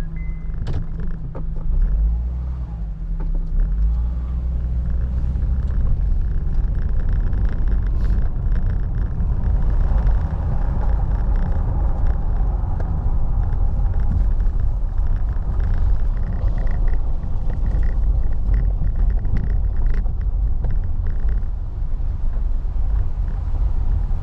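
A car driving, heard from inside the cabin: a steady low rumble of engine and tyres, with a few light knocks.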